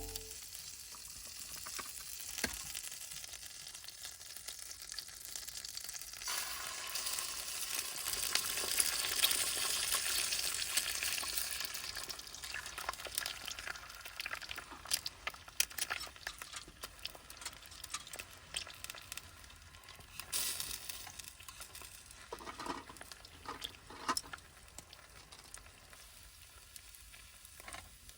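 Food sizzling and crackling in a frying pan, with occasional stirring; the sizzle grows louder about six seconds in, then eases off toward the end.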